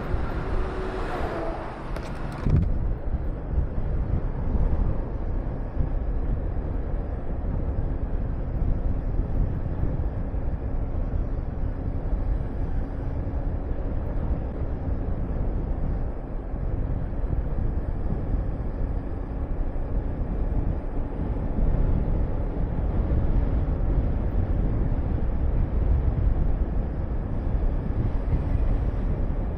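Honda VTR250's V-twin engine running on the move, mixed with steady wind rush on the helmet-mounted microphone. A louder rushing sound fills the first couple of seconds, then the engine and wind settle to a steady low rumble.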